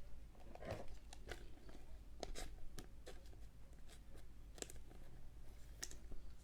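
Trading cards being handled: faint scattered clicks and short rustles of card stock and plastic sleeves.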